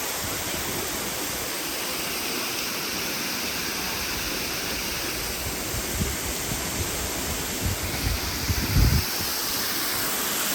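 Waterfall rushing: a steady, even roar of falling water. A few brief low thumps sound near the end.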